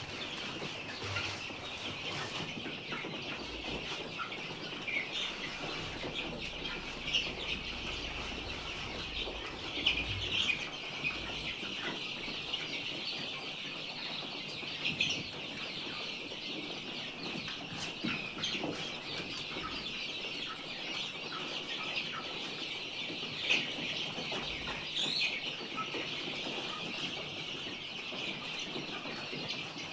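A flock of chickens calling and clucking together in a continuous din, with scattered louder calls standing out now and then.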